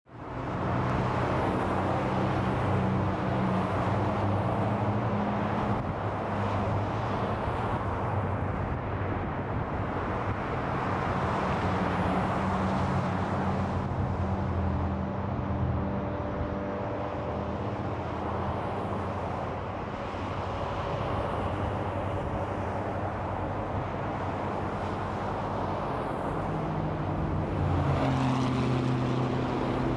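Interstate highway traffic going by in a steady stream: tyre noise mixed with the hum of engines. A deeper engine tone from a heavier vehicle comes in near the end.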